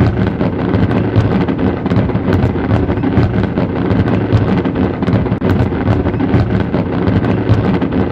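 Fireworks going off in quick succession: a continuous low rumble of overlapping bursts, with many sharp crackles and pops.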